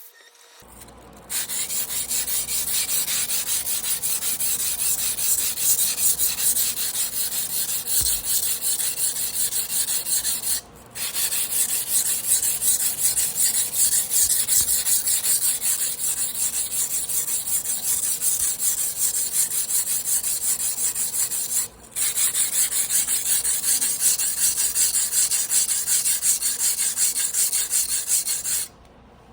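Damascus carbon-steel sashimi knife blade worked back and forth by hand against an abrasive, a steady run of fast scraping strokes. It goes in three long stretches, broken by two brief pauses.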